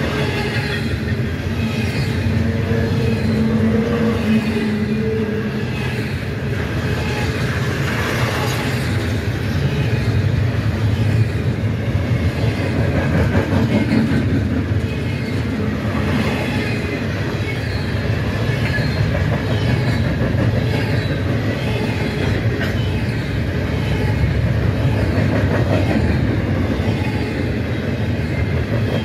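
A double-stack intermodal freight train rolling past: steady rumble and rattle of the well cars' wheels on the rails, with a faint steady tone for a few seconds near the start.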